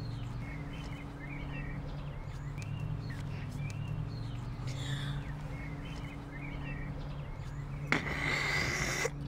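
Birds chirping over a steady low hum. About eight seconds in, a loud rushing whoosh starts suddenly and lasts just over a second, as the paper rocket appears.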